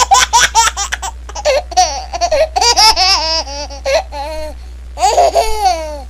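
Very high-pitched laughter, a giggle-like ringtone: quick bursts of 'ha-ha-ha' at first, then longer squealing laughs that rise and fall in pitch, over a steady low hum.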